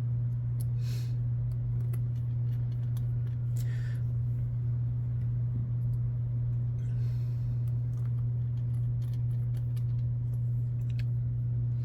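Scattered small clicks and light clatter of RC wheel hardware (hex hubs, wheel nut, tools) being handled, over a steady low hum.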